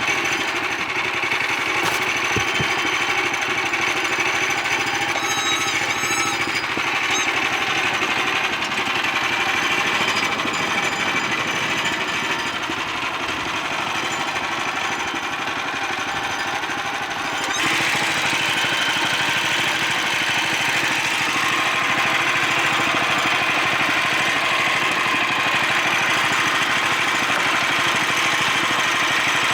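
Portable band sawmill (Woodland Mills HM126) running with its gas engine under load as the blade cuts through a white pine log. The sound is steady, then turns louder and higher about 17 seconds in.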